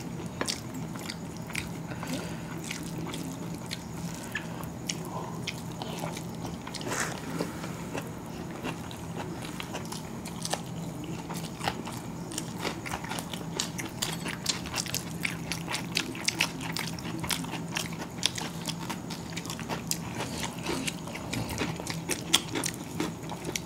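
Close-miked eating sounds of two people eating chicken biryani by hand: chewing and lip-smacking, with many small, sharp wet clicks scattered throughout. A low, steady hum sits underneath.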